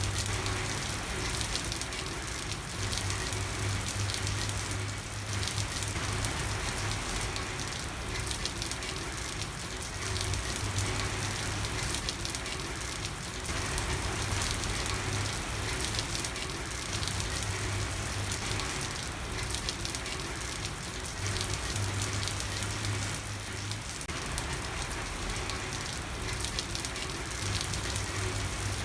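Steady heavy rain falling on a street, a dense even hiss of drops, with a low hum that comes and goes every few seconds.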